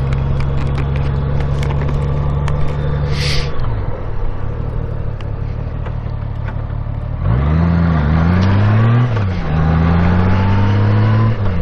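Honda Gold Wing F6B's flat-six engine running while riding. About three and a half seconds in, its pitch falls as the bike slows. About seven seconds in it gets louder and the pitch climbs, drops and climbs again as it accelerates through the gears.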